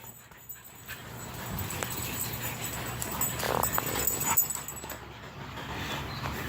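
Dogs running and playing, with a brief dog whine about halfway through.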